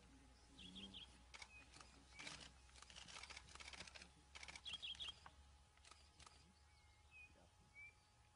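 Very quiet: faint scattered clicks, densest in the middle, and a small bird's short high chirping call twice.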